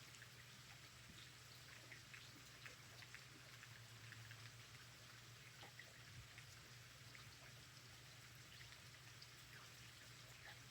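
Faint light rain, with scattered drops ticking over a steady low hum.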